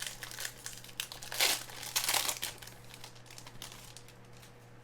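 Crinkling and rustling of a trading card pack wrapper being handled and opened, loudest between about one and a half and two and a half seconds in, then quieter.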